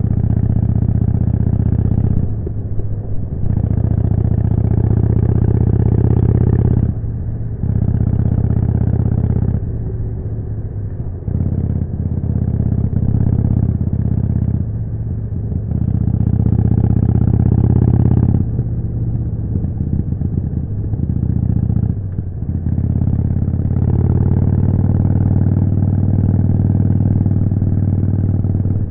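Harley-Davidson Forty-Eight's air-cooled V-twin running through a Jekill & Hyde exhaust on the move. The exhaust note swells under throttle several times and eases off in between.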